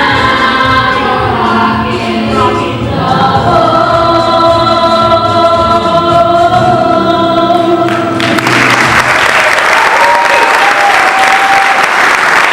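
A chorus of voices sings the end of a song and holds a final chord. About eight seconds in, the singing cuts off and audience applause breaks out and continues.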